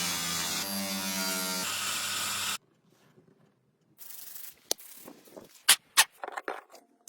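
A small electric power tool's motor runs with a steady whine, its pitch stepping twice, then stops abruptly. After a short pause come handling noises: sharp clicks and taps, two of them loud, of metal parts being worked by hand.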